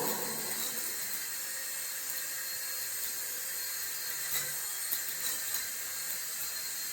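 A small electric motor whirring steadily and faintly with a high-pitched whine, with a few light clicks.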